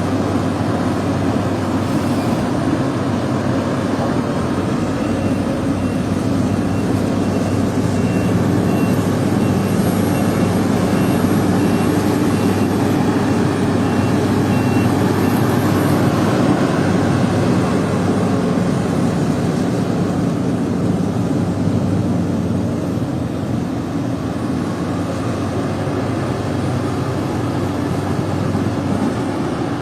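Diesel engine of heavy earth-moving machinery running steadily under load. A faint, regular warning beep sounds for several seconds in the middle.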